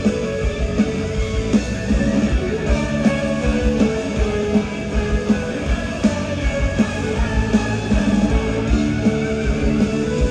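Live rock band playing an instrumental passage: guitars over a steady drum beat, without vocals.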